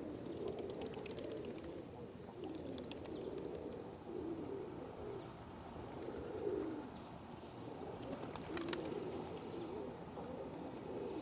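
A flock of feral rock pigeons cooing continuously in overlapping low, warbling calls, with scattered short clicks, the loudest about eight and a half seconds in.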